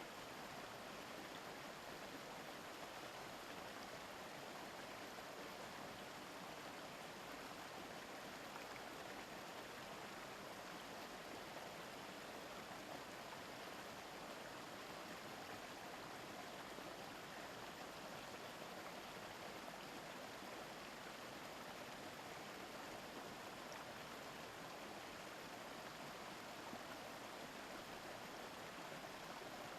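A river's babbling water, a steady, even rush with no breaks.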